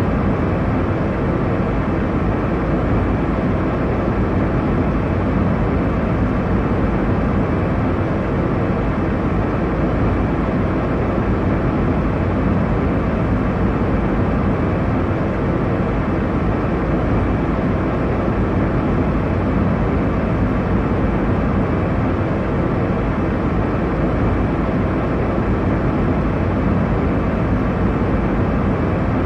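Airliner cabin noise in cruise: a steady, unchanging rushing hum, heaviest in the low and middle range, with a faint low drone under it.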